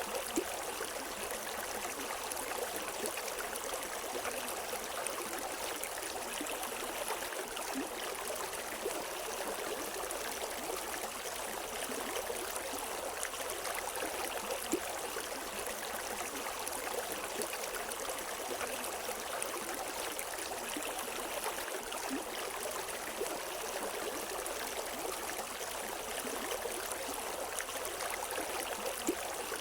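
River water flowing in a steady, even rush, with a few brief splashes now and then.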